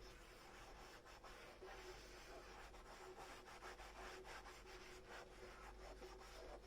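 Faint rubbing and light irregular scrapes and clicks of dishes being scrubbed by hand with a sponge.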